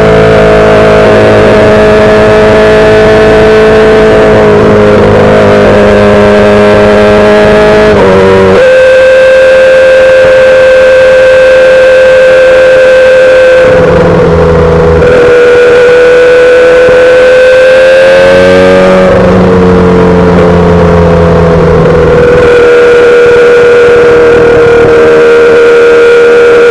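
2008 Yamaha R6 with an inline-four engine and a full SC-Project exhaust, running at held revs with a steady high engine note. The pitch steps up about 8 seconds in, dips briefly near 14 seconds, climbs again and drops near 19 seconds, as the throttle and gears change during riding.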